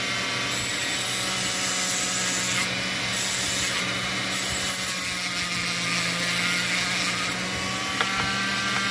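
Dremel rotary tool with a grinding tip running steadily against a rusty spinner blade, a motor whine over a continuous abrasive rasp as the rust is ground off to bring the metal back to a shine.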